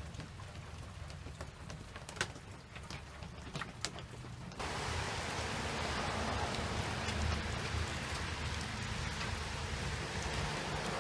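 Rain falling, with a few sharp drip-like taps at first; about four and a half seconds in it turns abruptly into a louder, dense hiss of heavy rain, over a steady low rumble.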